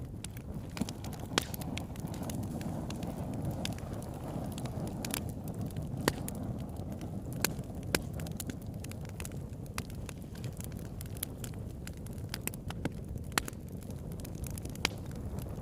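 Campfire burning: wood crackling with irregular sharp pops, a few much louder than the rest, over a steady low rush of flame.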